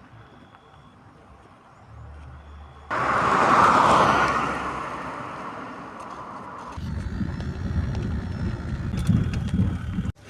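Noise of a moving vehicle: a quiet hum, then a loud rushing noise that starts suddenly about three seconds in and slowly fades, turning into a deeper rumble about seven seconds in.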